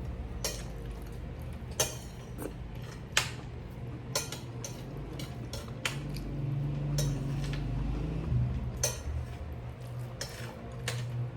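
Cutlery clinking and tapping against a dish, a dozen or so sharp, irregular clicks, while stew is being eaten. A low steady hum runs underneath.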